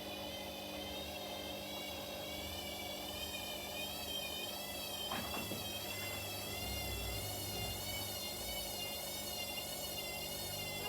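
Front-loading washing machines running mid-cycle, a motor whine wavering slowly up and down in pitch over a steady hum. A single knock comes about five seconds in.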